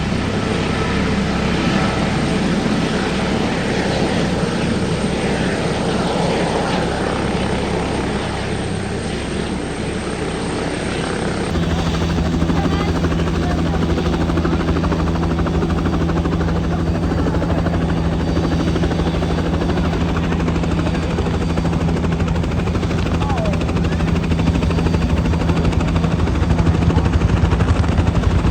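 Helicopter flying, the turbine and rotor making a loud continuous sound. About a third of the way in the sound changes abruptly to a steady low drone with a rapid rotor beat, which grows louder near the end.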